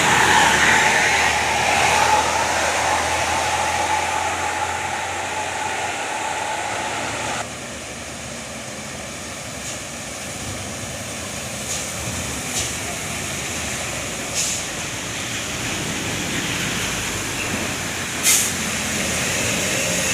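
Heavy road traffic with trucks passing: steady engine and tyre noise, louder for the first seven seconds or so, then dropping suddenly. A few short hisses later on.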